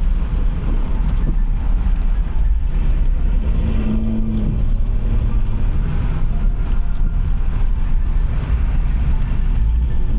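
A car driving, heard as a steady low rumble of engine and road noise, with a brief low hum about four seconds in.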